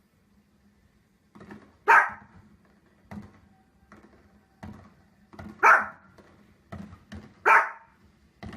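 A dog barking: three loud, sharp single barks about two seconds apart, with fainter thumps in between.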